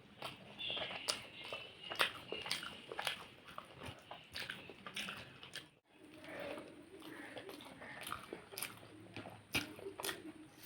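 Close-up eating sounds: a person chewing and biting chicken curry with roti and rice, with wet mouth smacks and irregular clicks, cut off briefly a little before halfway.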